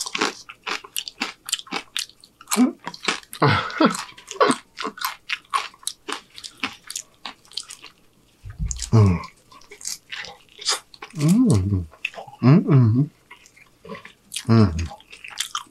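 Mouth noises of eating tortilla chips and a carne asada burrito: many sharp crunches and wet chewing sounds, broken a few times by short wordless hums of the voice.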